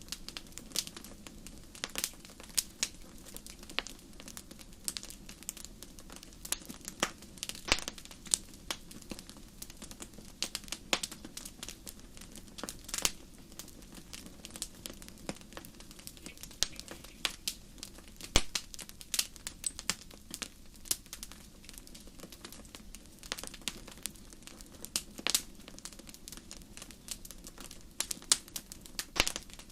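Wood fire burning in a fireplace: irregular crackles and sharp pops, several a second, some much louder than the rest, over a low steady rumble of the flames.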